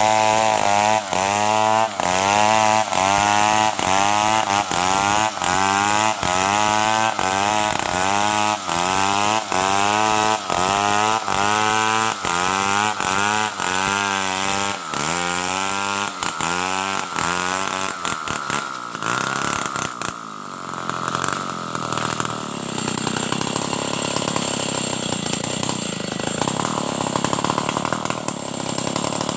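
Stihl 070 two-stroke chainsaw running under load while ripping timber, its engine pitch rising and dropping back about twice a second. After about twenty seconds the cycling stops and it settles into a steadier, rougher sound.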